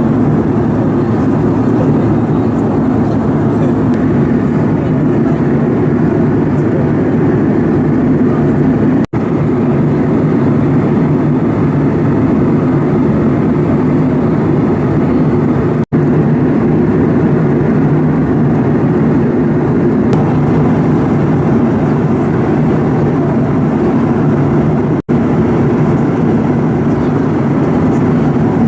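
Airliner cabin noise in flight: a steady, loud rush of engines and airflow with a low hum. It drops out for an instant three times where recordings are joined.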